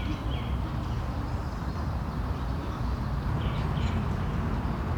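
Outdoor ambience: a steady low rumble with a few short bird chirps, once at the start and again about three and a half seconds in.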